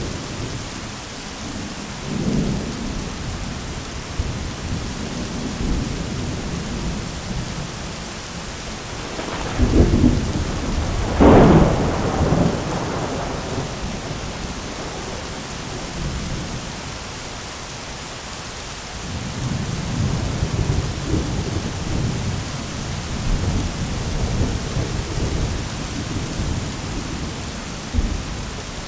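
Thunderstorm: steady rain with low rolling thunder. A loud clap of thunder peaks twice, about ten and eleven and a half seconds in, and a longer rumble follows later.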